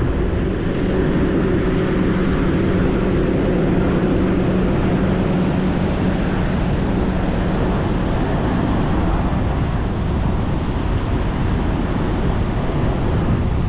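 Steady vehicle engine noise over a constant rumble, with a low, even hum that fades out about eight seconds in.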